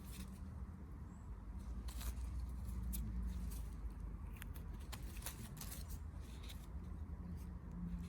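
Rustling and small crackles of leaf litter and twigs being trodden and brushed, irregular and scattered, over a low rumble of handling noise.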